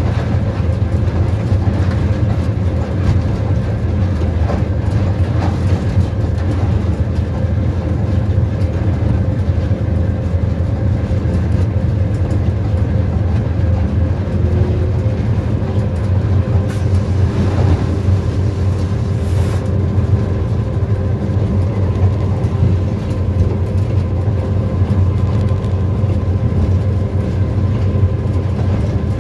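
Tezgaam Express passenger train running at speed, heard from on board: a loud, steady rumble of the carriage on the rails. A faint steady whine joins about halfway.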